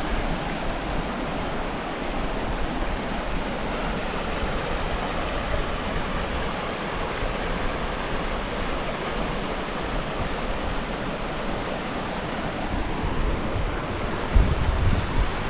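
Floodwater rushing steadily over a ford, the creek running full after heavy rain. A gust of wind buffets the microphone near the end.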